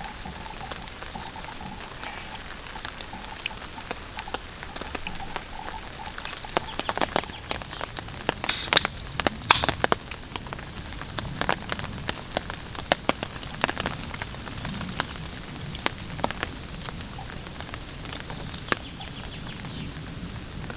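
Rain falling on a tarp shelter: a steady hiss of rain with irregular sharp taps of individual drops striking the tarp, busiest around the middle.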